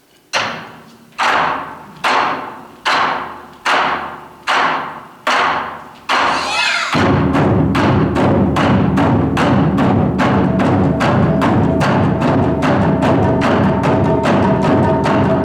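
Japanese taiko drums played in ensemble: first a row of single heavy strikes, each left to ring out, then from about seven seconds in a fast, dense barrage of beats at full loudness. A steady held tone sounds over the drumming in its second half.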